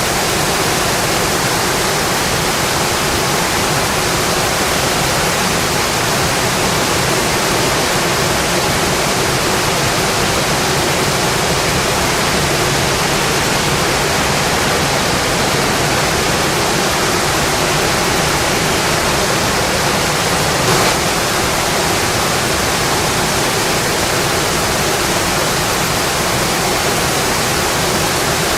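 Steady rainfall, an even unbroken hiss, with one brief sharper tick about twenty seconds in.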